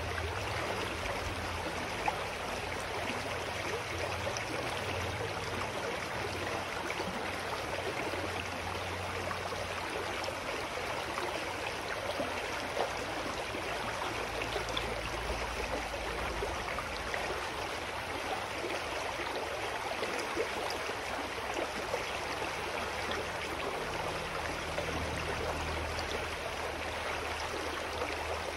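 Clear mountain stream flowing over rocks: a steady rushing and burbling of water.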